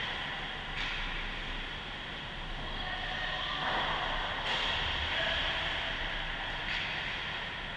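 Ice rink ambience during a hockey game in play: a steady wash of arena noise and play on the ice, with no single event standing out.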